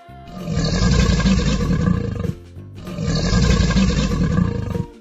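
Komodo dragon sound effect: a loud, rough roar played twice, about two seconds each with a short break between, over soft background music.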